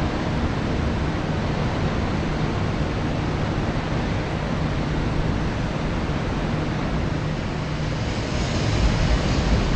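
Steady rumble of an electric multiple-unit train running through a station, with wind on the microphone. Near the end the sound grows a little louder and brighter.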